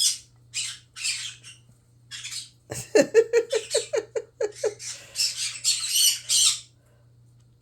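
Cockatiel chattering and whistling at tumbled rocks: a string of raspy, high chirps, then a quick run of about eight short pitched notes near the middle, then more raspy chatter.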